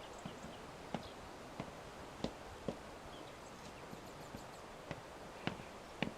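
A series of sharp, irregularly spaced knocks, about seven in six seconds, over a steady background hiss, with a few faint high chirps.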